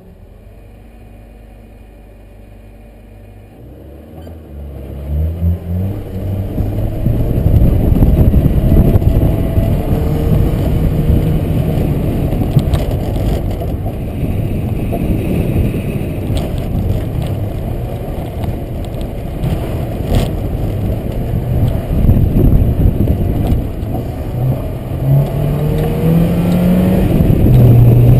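Honda Civic EK4's four-cylinder VTEC engine idling quietly, then revved hard and launched about four seconds in. It runs loud at high revs for the rest of the run, with the revs climbing again near the end.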